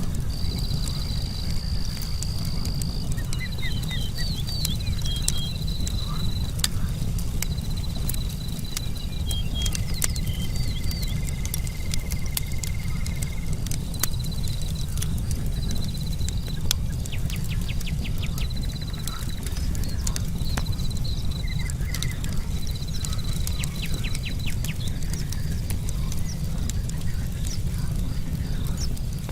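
Campfire crackling, with frequent sharp pops and snaps of burning logs over a steady low rumble, while night insects such as crickets trill in short repeated high-pitched bursts.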